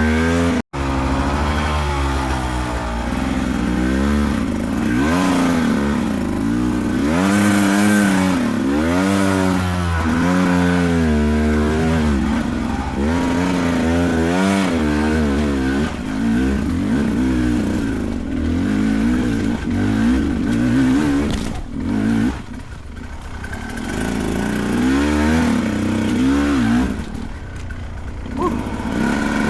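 Beta 300 two-stroke dirt bike engine revving up and down over and over as the throttle is worked hard. The sound cuts out for a moment about a second in, and the engine eases off twice near the end.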